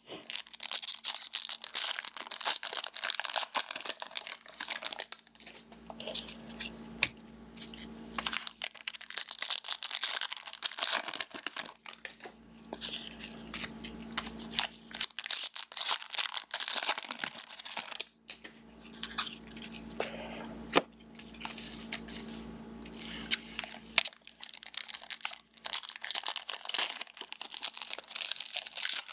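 Trading card pack wrappers being torn open and crinkled, with cards shuffled and handled: continuous rustling and crackling with many sharp snaps, easing off briefly a few times.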